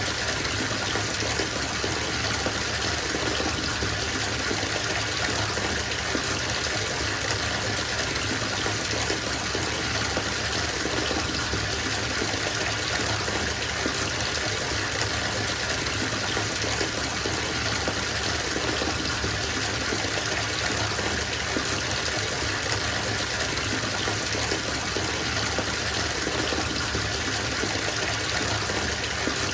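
Bathtub filling from the faucet: a steady, even rush of water pouring into the tub.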